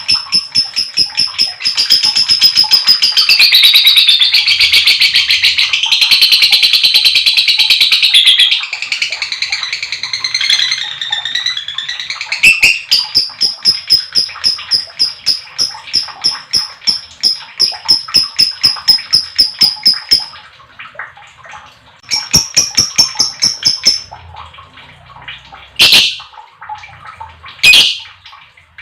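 Lovebird giving its long chattering trill (ngekek panjang): long runs of rapid, shrill repeated notes, densest and loudest in the first third. After a short break the trill resumes, stops again, and near the end come two or three single sharp squawks.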